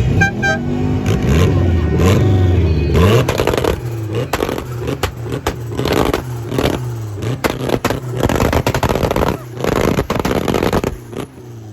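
Car engine revving up and down, then held on a two-step launch limiter, firing rapid, irregular bangs and crackles from the exhaust for several seconds before cutting off suddenly near the end.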